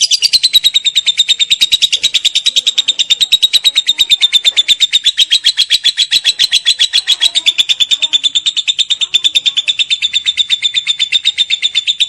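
Lovebird singing a long unbroken ngekek chatter: rapid high chirping notes, about ten a second, held at a steady pitch without a pause.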